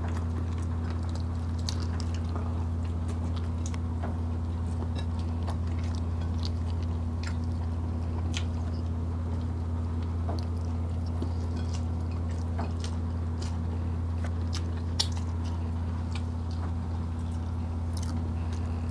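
Close-up eating sounds from people eating grilled chicken and rice by hand: chewing with scattered short, sharp mouth clicks and smacks at irregular moments. A steady low hum runs underneath and is the loudest thing.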